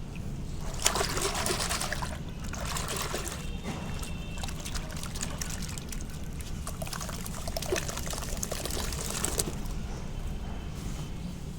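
Soft sand-cement dipped in water, crackling as it soaks and crumbles, with water trickling. The crackle comes in three bursts, the longest about eight seconds in.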